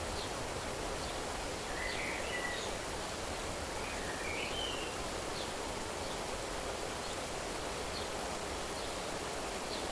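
Steady hiss of outdoor nature ambience, with small birds giving short chirps and whistles now and then, most clearly about two seconds in and again around four to five seconds in.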